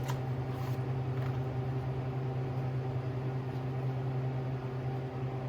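Steady, unchanging low electrical hum with evenly spaced overtones, a mains-type buzz from shop equipment.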